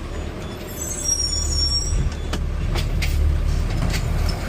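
Garbage truck engine running steadily with a low rumble. A thin high squeal comes about a second in, and a few sharp clicks and knocks follow in the second half.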